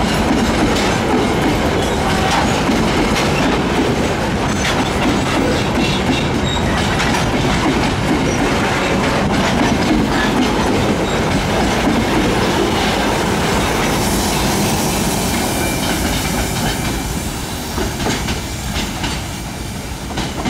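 Loaded coal hopper wagons of a freight train rolling past, steel wheels clicking over the rail joints in a steady clickety-clack. The sound eases off in the last few seconds as the end of the train moves away.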